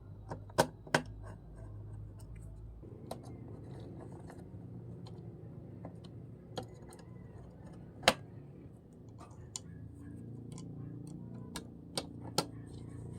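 Irregular sharp clicks and taps from tools and small parts being handled during circuit-board repair work, a few of them much louder. They sound over a low hum that drops away about three seconds in.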